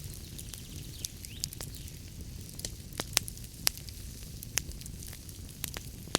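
Wood fire crackling in a fireplace: irregular sharp pops and snaps over a low steady rumble of the flames, with a few louder pops about three seconds in.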